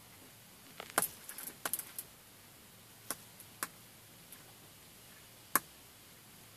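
A small bird taps sharply on a car windscreen, heard from inside the car. There is a quick run of taps in the first two seconds, then a few single taps, and the loudest comes near the end.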